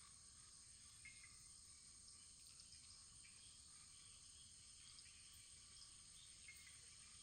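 Faint wood fire burning: a steady high hiss with a few scattered small crackles.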